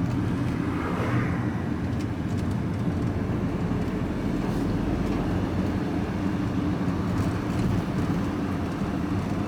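Truck engine and tyre noise, heard from inside the cab while driving at a steady speed, with a constant low drone.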